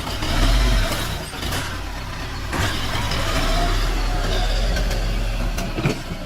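Diesel tractor engine running with a steady low drone. The sound dips about a second in, and there is a sharp knock near the end.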